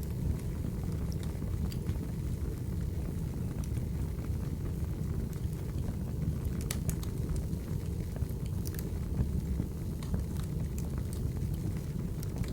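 Firewood burning: a steady low rumble of the fire with scattered sharp crackles and pops.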